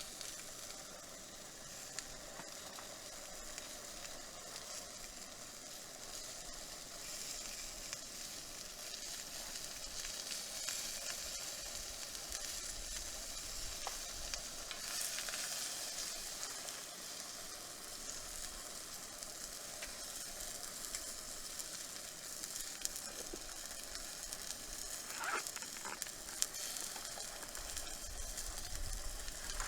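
Steady sizzling at a campfire, with scattered faint clicks and crackles.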